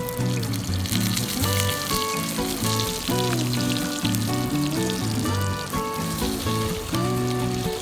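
Food frying, a steady sizzling hiss, heard over background music with held melodic notes.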